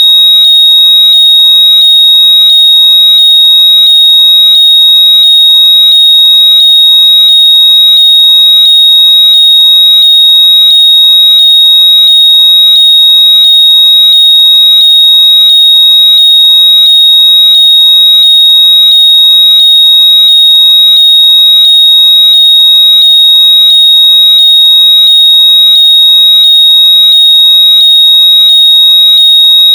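Very loud, high-pitched synthetic electronic tone near 4 kHz, pulsing in a fast even rhythm over faint repeating sweeping chirps, like an alarm beep. It is a locator noise meant to be played through lost earbuds or headphones so they can be heard and found.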